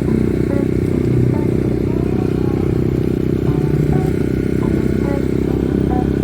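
Trail motorcycle engine running steadily while riding, a dense low rumble with no breaks.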